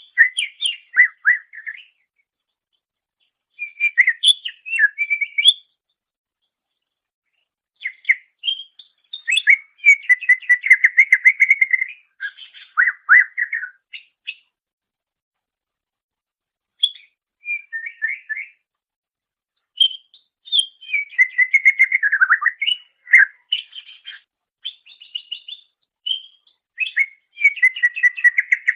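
Green leafbird (cucak ijo) singing: phrases of rapid chattering and whistled notes, with short silent pauses between phrases.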